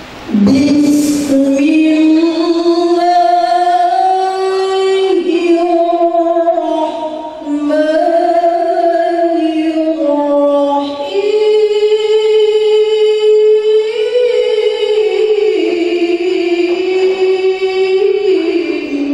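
A woman's voice reciting the Quran in the melodic tilawah style: long, held, ornamented notes, with short breaks for breath about five, seven and eleven seconds in.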